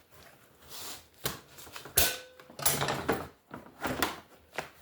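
Handling noises from working on an exhaust silencer: a series of sharp clicks and knocks, a few to a second apart, with rustling in between.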